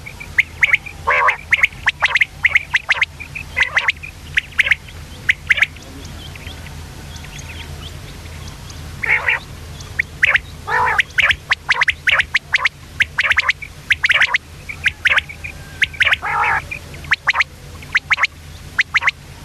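Common quail calling: many short, sharp chirps and squawks in quick runs, with a lull about six to nine seconds in, over a steady low hum.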